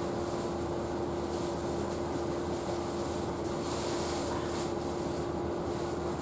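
Cabin sound of an Isuzu Erga Hybrid city bus: a steady mix of running noise and a constant hum, with one steady mid-pitched tone throughout.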